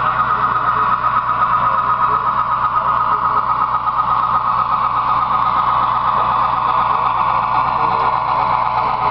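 Model train running on the layout: a steady whir of its small electric motor and wheels on the track.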